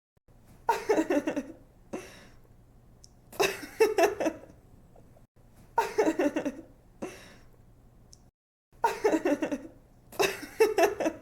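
A woman laughing in five short giggling bursts, each a quick run of pulsed "ha" sounds, with pauses between them.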